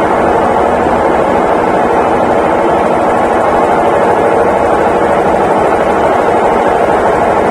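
Consul Facilite 11 kg (CWG11) washing machine in its final spin, the drum turning at high speed with a loud, steady whirring hum.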